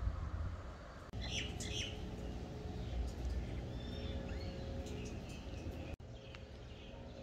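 Small birds chirping in short calls at several points, over a steady low rumble, with a brief break in the sound about six seconds in.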